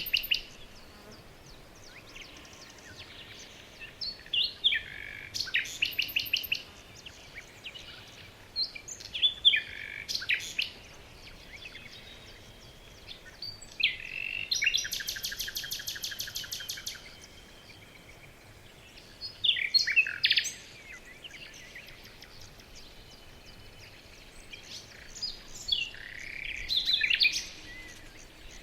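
Songbirds singing short, separate phrases of chirps and whistles every few seconds, with a fast, even trill of rapidly repeated notes lasting about three seconds midway.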